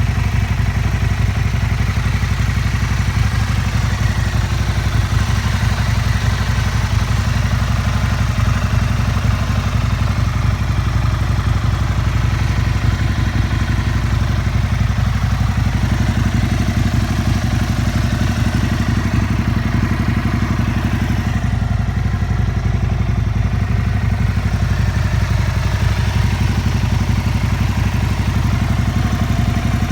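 Aprilia SL 1000 Falco's 60-degree V-twin idling steadily through a full LeoVince SBK aftermarket exhaust, with no revving.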